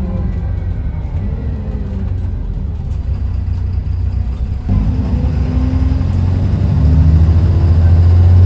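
Dennis Trident 2 double-decker bus's diesel engine running with a low drone. About halfway through it steps up suddenly and grows steadily louder, as under load pulling away.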